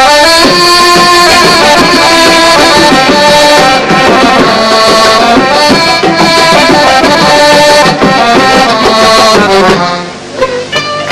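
Arabic music ensemble playing the instrumental introduction of a Gulf song: a melody held and moving in unison over hand-drum percussion. About ten seconds in the held melody stops and short, separate notes follow.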